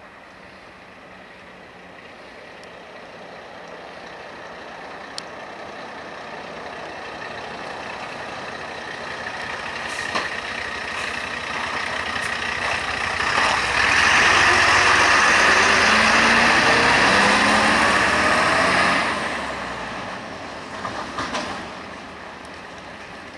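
A heavy truck's diesel engine draws near and goes by, building slowly to a loud pass with the engine pitch rising as it pulls away, then fading. There are a few sharp clicks along the way.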